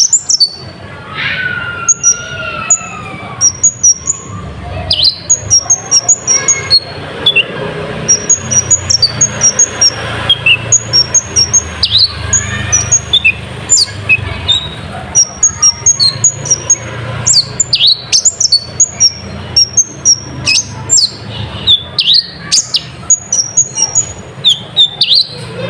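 Olive-backed sunbird (kolibri ninja) singing a fast, unbroken run of sharp, high chirps, with a few lower sliding notes near the start, over a steady low hum. It is a bird whose song is filled in with imitated nightjar calls.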